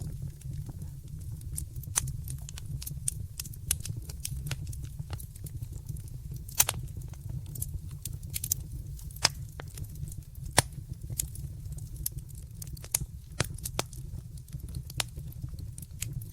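Wood fire burning in a fireplace: a steady low rumble of the flames with irregular crackles and sharp pops, the loudest snaps about 6.5 and 10.5 seconds in.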